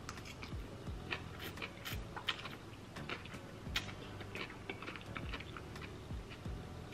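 Close-up eating sounds: chewing and slurping glass noodles, a scatter of small wet mouth clicks and smacks.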